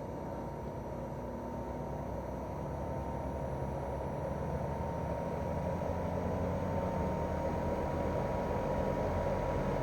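Daikin R28RMV mini-split outdoor unit running in heating mode, its twin-cylinder swing inverter compressor and fan giving a steady whir. The whir slowly gets louder, and a faint tone edges upward in pitch, as the compressor speeds up.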